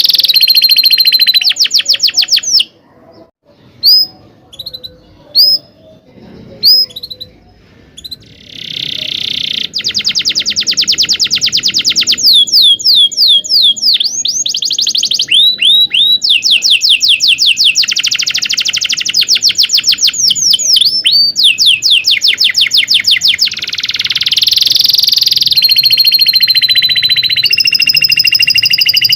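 Domestic canary singing a long song of rapid rolling trills and chirps. A pause of a few seconds near the start is broken only by a few single chirps, then the song resumes in long, unbroken fast rolls.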